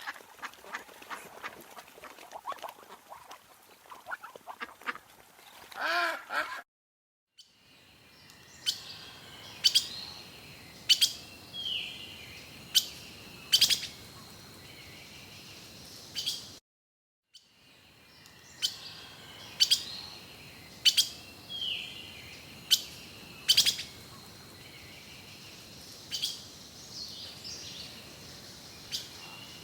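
Ducks quacking for the first six seconds or so. After a brief cut to silence, sharp short bird chirps come about once a second over a faint steady high tone, and after a second brief silence the same chirping passage repeats.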